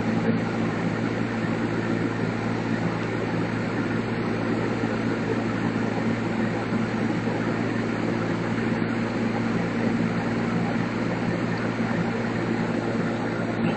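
Homemade air cooler running steadily: an even rush of air over a constant low motor hum.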